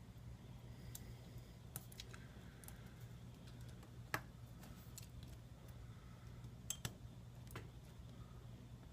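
Faint, scattered small clicks and taps of a smartphone's parts being handled as its logic board is fitted back into the frame, the sharpest click about four seconds in, over a steady low hum.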